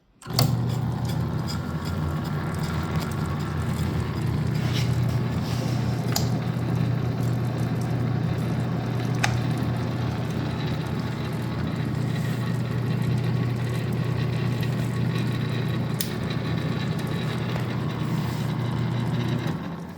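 Atlas QC54 10-inch metal lathe running in direct drive, driven by its 3/4 horsepower single-phase motor: a steady hum with a few light ticks. It switches on about half a second in and spins down near the end.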